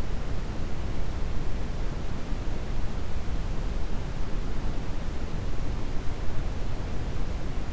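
Steady brown noise: a continuous deep hiss with most of its weight in the low end, unchanging throughout.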